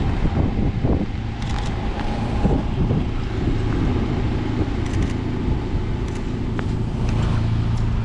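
Car engine running steadily, with a few light clicks about a second and a half in, around five seconds in and near the end.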